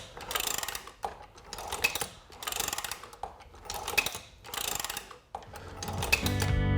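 Dillon Super 1050 progressive reloading press being cycled by its handle, the ram travelling up and down the freshly oiled main shaft with a clack at each stroke, about one stroke a second. Guitar music fades in near the end.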